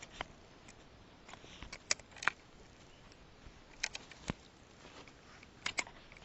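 Sparse sharp clicks and light knocks from fishing gear being handled in a kayak, some in quick pairs, over faint background noise.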